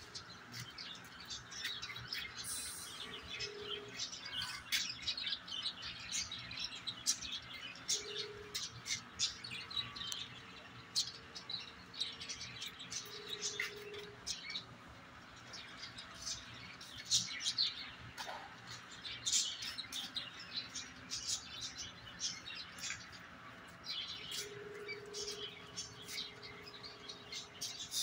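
Small birds chirping in quick, scattered calls over a faint steady hum.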